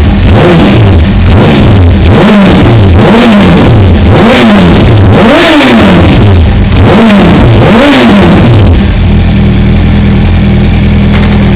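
Yamaha R1 inline-four engine through a full Akrapovic exhaust, loud, being blipped again and again: the pitch rises and falls about once a second. About nine seconds in it settles to a steady idle.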